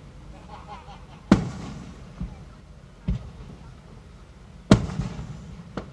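Fireworks going off: two loud booms, each trailing off in a rumbling echo, with several smaller bangs between and after them.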